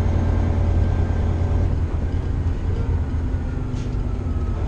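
Diesel engine of a semi truck running steadily at low revs, a low hum whose pitch shifts slightly about two seconds in.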